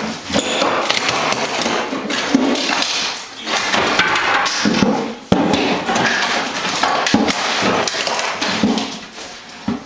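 Old hardwood floorboards being hammered and pried up: a dense run of knocks, wood cracking and scraping, with one sharp hard knock about five seconds in.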